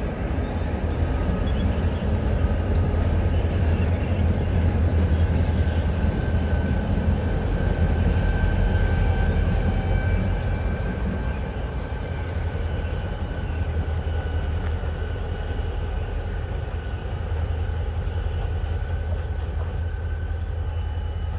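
Diesel freight locomotives running at low speed, a continuous low engine rumble with a steady high whine over it. It is loudest over the first ten seconds or so, then eases slightly.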